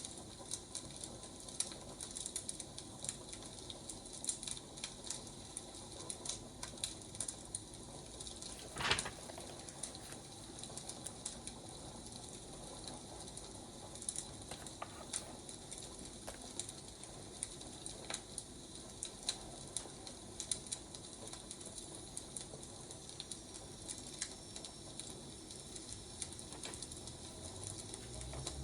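Wood fire crackling, with irregular small pops over a steady hiss and one louder pop about nine seconds in.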